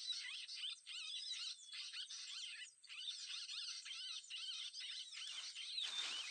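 Bird song: quick, continuous twittering and chirping with a steady high-pitched tone underneath, and a short rustle near the end.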